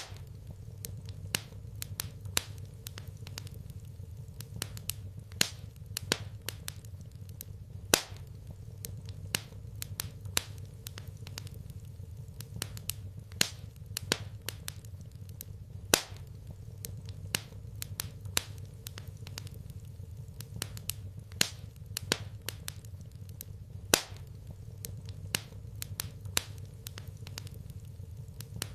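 Wood fire crackling in a fireplace: irregular sharp snaps and pops over a steady low rumble, with a louder pop about every eight seconds.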